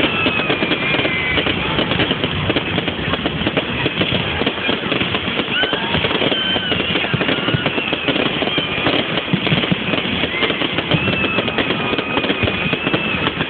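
Fireworks crackling densely and without a break, with thin high whistles coming and going over the crackle.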